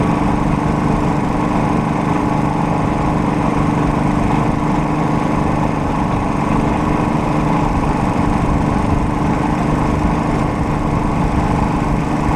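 Small engine running steadily at a constant speed, with an even hum and no change in pitch.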